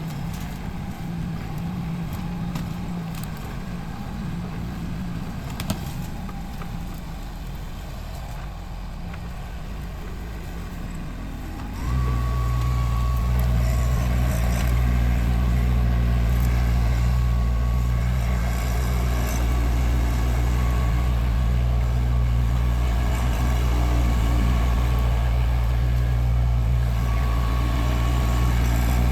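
Tractor engine running; about twelve seconds in it gets suddenly louder and settles into a steady low drone.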